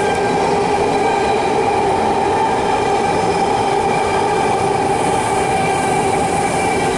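BART (Bay Area Rapid Transit) train passing: a loud, steady rush of wheels on the rails with a high whine of several steady tones over it.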